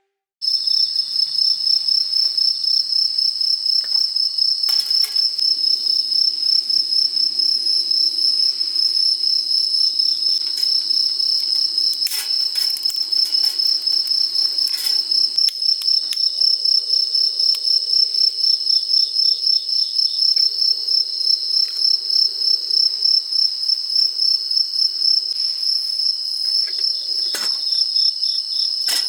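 Crickets trilling: a loud, continuous high-pitched trill with a fast even pulse, with a few sharp clicks now and then.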